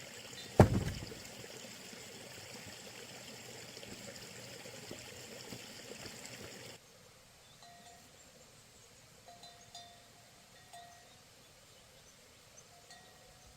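A single heavy thump with a short ring-out about half a second in, over a steady hiss of background noise. About seven seconds in the hiss cuts off abruptly, and a few brief high, steady tones follow in the quieter stretch.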